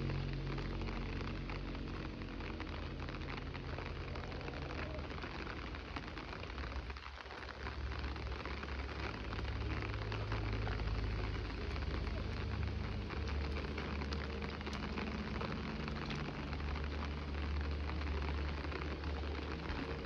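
Steady rain falling, a dense patter of many drops, over a continuous low rumble.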